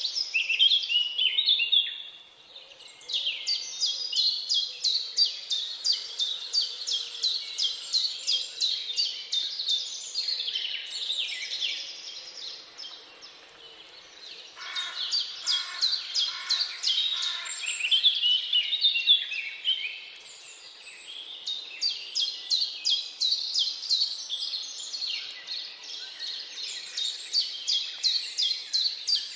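Woodland birdsong: long runs of fast, high repeated chirps from several birds overlapping, with short lulls about two seconds in and again around the middle.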